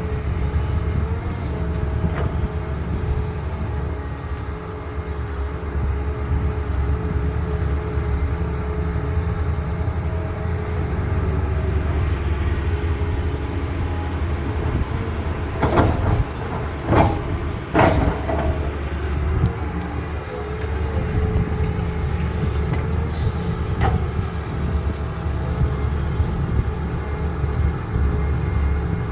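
Heavy machinery diesel engine running steadily with a low rumble and a wavering whine, as a Cat excavator works. About halfway through, three loud knocks or clanks come in quick succession, about a second apart.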